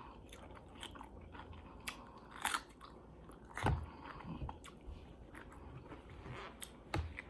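Close-miked chewing and biting of food, with scattered crunches and wet mouth clicks.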